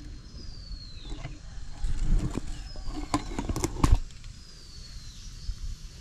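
A bird gives a thin, falling whistle every couple of seconds. Between about two and four seconds in comes a run of sharp knocks and rustles, the loudest just before four seconds.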